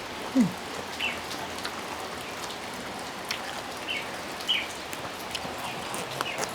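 Steady rain falling on surfaces, with scattered close drops ticking, and a few short high chirps now and then.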